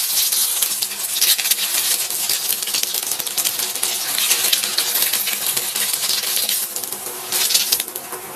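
Food frying in hot oil in a pan: a steady sizzle thick with fast crackling pops, getting quieter near the end.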